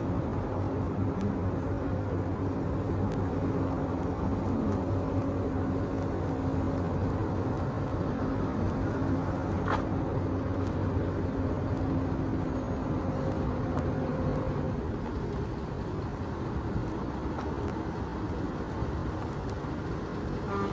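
Road traffic noise with a nearby engine humming steadily. The engine falls away about fifteen seconds in, leaving quieter traffic. A brief short squeak comes about ten seconds in.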